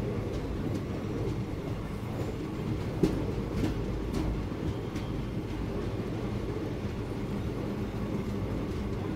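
Koyna Express passenger train running along the line, heard from on board: a steady low rumble of wheels on track with a few sharp clacks, the loudest about three seconds in.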